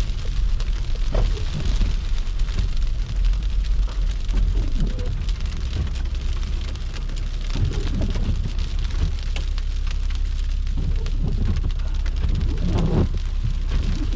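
Car driving on snowy, slushy streets in a snowstorm: a steady low road rumble under a rain-like hiss, with a few louder surges now and then.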